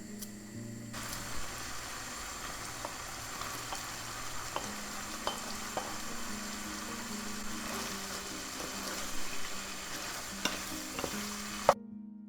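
Food sizzling in a frying pan as it is stirred, with scattered clicks of the utensil against the pan, over soft background music. The sizzle starts about a second in and cuts off abruptly near the end.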